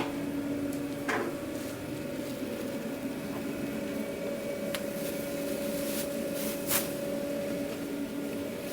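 Steady mechanical hum of kitchen equipment, such as a ventilation fan or generator, with a few light clicks and knocks of food containers being handled.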